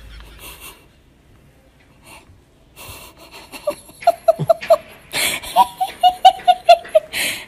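A person laughing hard in quick high-pitched bursts of about four or five a second, with wheezy gasping breaths in between. The laughter starts about halfway in, after a quiet stretch.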